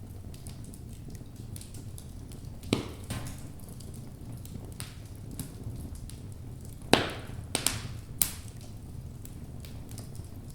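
Logs burning in a fireplace: a steady low rush of flame with frequent small crackles, and louder wood pops about three seconds in and a quick cluster of three around seven to eight seconds in.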